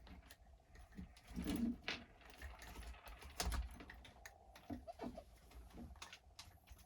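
Irregular clicking and tapping of hard RC truck parts being handled and worked into place, as the XTM Mammoth's chassis is fitted back onto the truck.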